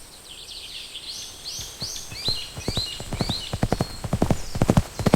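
Hoofbeats in a clip-clop sound effect, irregular steps that grow denser and louder through the second half, laid over a run of repeated high chirping calls in the first half.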